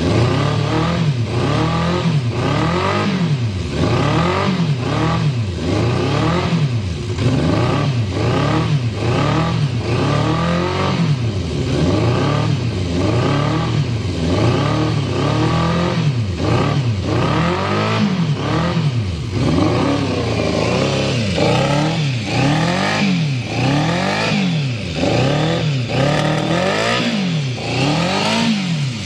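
Yamaha FZ400's inline-four engine being revved over and over with the throttle, each rev climbing and dropping back, about once a second, with some higher revs in the second half.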